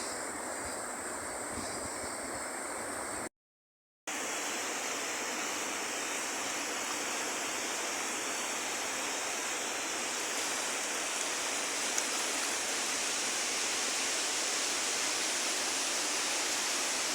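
Rushing river water, a steady even rush, cut by a short stretch of dead silence about three seconds in before the water sound resumes.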